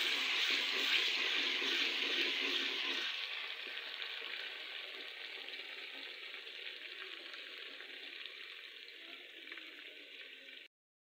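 Onion and spice masala sizzling steadily as it fries in oil in an aluminium pot, stirred with a wooden spoon for the first few seconds. The sizzle slowly grows quieter and cuts off suddenly near the end.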